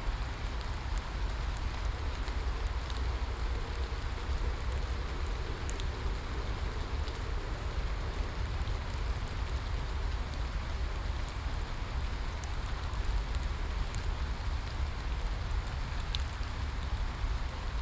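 Steady rain falling and pattering on a surface, with scattered sharp drop ticks and a constant low rumble underneath.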